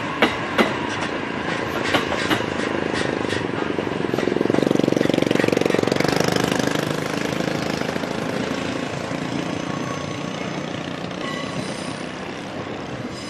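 JR East E657 series electric express train rolling along the track: its wheels click over rail joints for the first few seconds, then the running noise swells, is loudest a few seconds in, and slowly fades. Faint high-pitched squealing comes in near the end.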